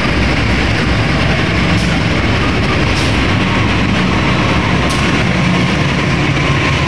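Diesel-electric locomotive passing close by with its engine rumbling, followed by passenger coaches rolling on the rails, with a few wheel clacks over rail joints.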